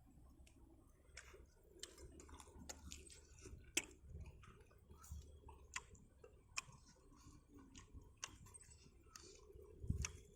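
Faint eating sounds: a person chewing crispy fried chicken, with scattered sharp crunchy clicks at irregular intervals and louder bites about 4 s in and near the end.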